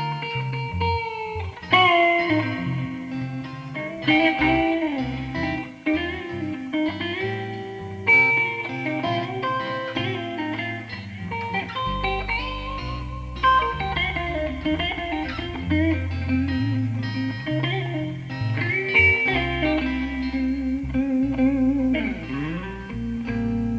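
Electric guitar playing a blues lead, with bent notes and vibrato, over a low bass part that gets heavier about halfway through.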